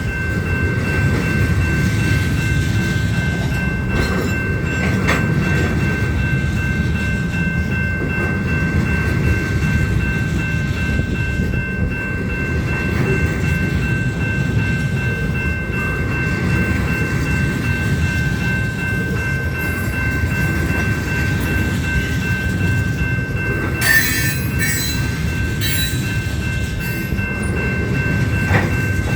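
Union Pacific freight cars rolling past: a steady, loud rumble of wheels on rail with a thin, steady high-pitched whine over it, and a few sharp clanks near the end.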